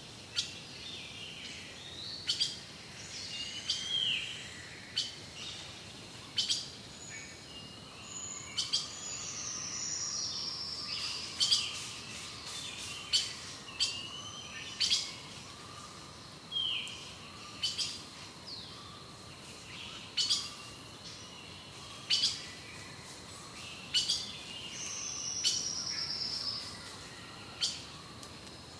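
Rainforest birds calling: sharp, short high chips roughly every second or two, with two descending whistled trills, over a faint steady high hum from the forest.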